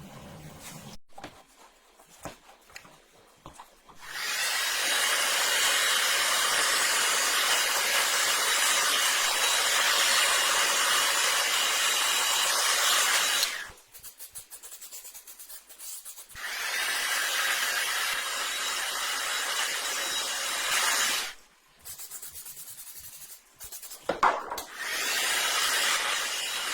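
Power sander running on the go-kart's parts in two long stretches, about nine seconds and then about five, with quieter scraping and handling sounds in the pauses between.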